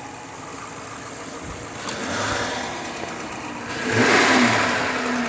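2012 Dodge Charger Police Interceptor engine revved from idle: a light blip about two seconds in, then a stronger rev about four seconds in that eases back toward idle. The engine is running well, with no fault codes showing.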